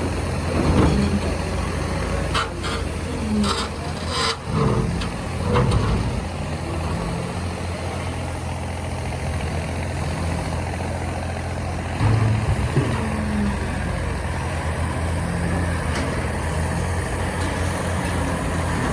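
Heavy diesel engine running steadily with a deep hum. A few sharp metallic clanks come between about two and five seconds in.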